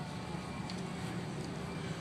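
A vehicle engine running steadily with a low hum, under general outdoor background noise.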